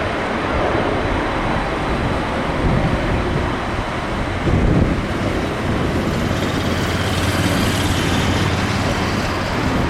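Typhoon-strength wind blowing hard across the microphone, mixed with the steady rumble of a jet airliner's engines as it comes in to land in a strong crosswind.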